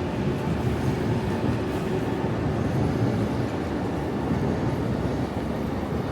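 Train passing, a steady low rumble.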